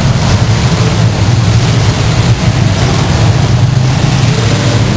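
Engines of several demolition derby cars running and revving together, a loud, steady low rumble.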